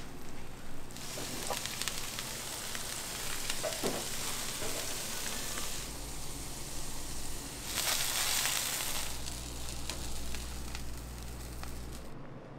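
Food frying in a commercial kitchen, a steady sizzle that starts about a second in, swells louder about eight seconds in and drops away near the end, with a few light clicks along the way.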